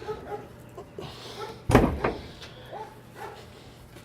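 A single loud thump a little under two seconds in, among faint short sounds.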